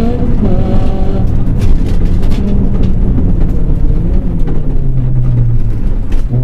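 Rally car's engine heard from inside the cabin. The engine note drops off about half a second in and runs rough and noisy through the middle with a few sharp clicks. It then settles into a low, steady tone near the end as the car slows for a sharp turn.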